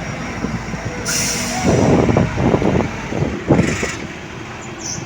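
Heavy truck running, with a short burst of air hiss about a second in, followed by a few seconds of rough, uneven mechanical noise.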